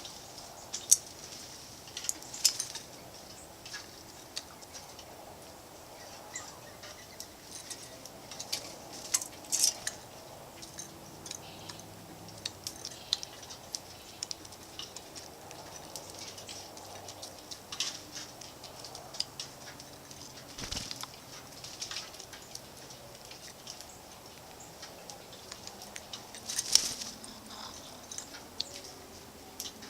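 Animals feeding at a bird feeder: scattered, irregular sharp ticks and chips, loudest about a second in and again near the end.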